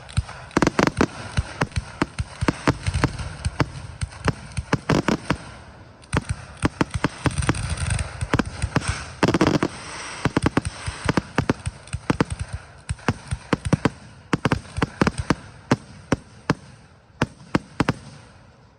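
Aerial fireworks display: a rapid barrage of shell bursts and sharp reports, several bangs a second over a continuous crackle, with a brief lull about six seconds in and the barrage tailing off near the end.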